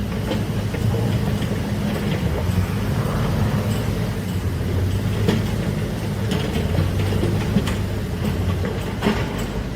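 A large excavator's diesel engine running steadily under load, with a few sharp metallic clanks, the clearest about five seconds in and near the end.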